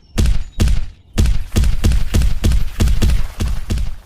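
Repeated heavy thuds: two spaced strikes, then a quicker run of about four a second from about a second in.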